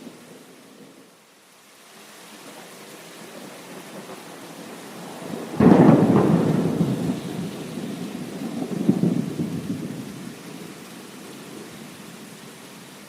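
Steady rain with a thunderclap cracking in about halfway through. The thunder rumbles on, swells once more a few seconds later, then fades back into the rain.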